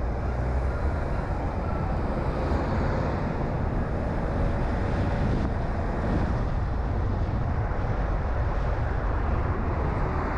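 A car driving along at steady speed: a continuous low rumble of engine and road noise with tyre hiss, unchanging throughout.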